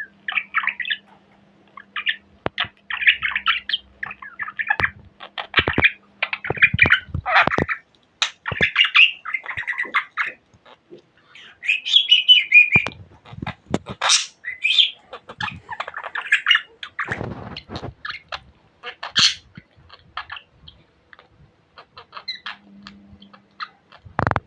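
Pet budgerigar chattering and warbling in quick runs of chirps, with a few sharp clicks mixed in.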